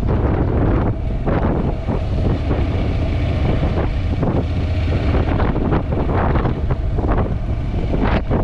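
Heavy wind buffeting on a GoPro's built-in microphone while riding a Honda NC750X motorcycle, with the bike's parallel-twin engine running low beneath the wind.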